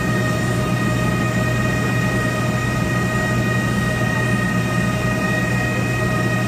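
A steady machine drone with a low hum and several high whining tones that hold one pitch without change.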